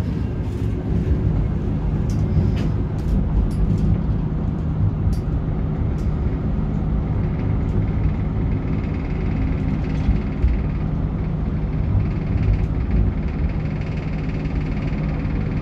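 Interior noise of a V/Line VLocity diesel railcar: a steady low engine rumble and hum, with scattered light clicks and rattles in the first few seconds. A faint, steady, higher whine comes in about halfway through.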